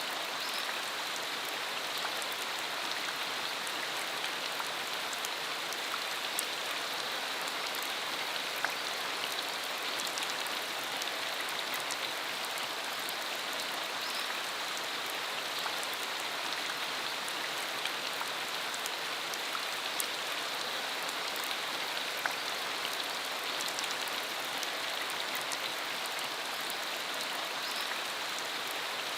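Steady rain shower: an even hiss of falling rain with many small, sharp drop ticks scattered through it.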